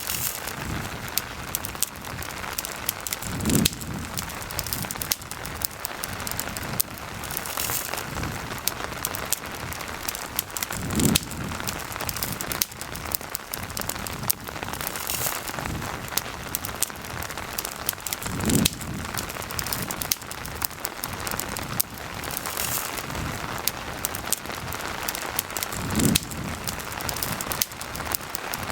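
Steady rain falling, mixed with the sharp pops and crackles of a wood campfire. A soft low swell rises and fades about every seven to eight seconds.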